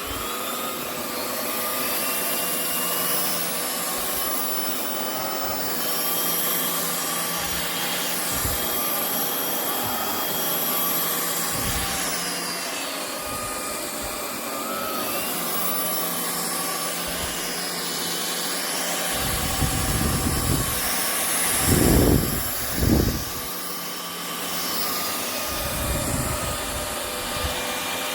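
Vistefly V15s Max cordless stick vacuum running steadily, its motor whine drifting a little in pitch. A few low thumps come about two-thirds of the way through.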